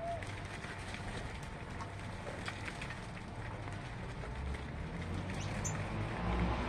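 Outdoor background noise with a few faint, scattered bird chirps, and a low engine rumble, as of a passing vehicle, growing louder near the end.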